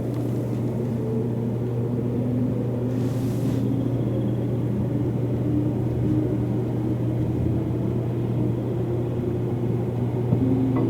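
Electric limited-express train running, heard from inside the passenger car: a steady low rumble with faint motor tones above it, growing slightly louder.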